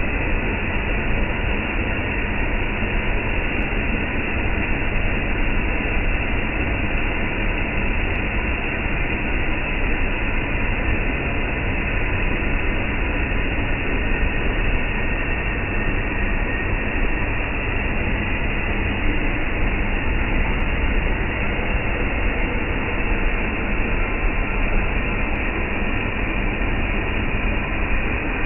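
Steady, even rushing noise of a restaurant kitchen as chicken karahi cooks in the wok, with a faint constant hum.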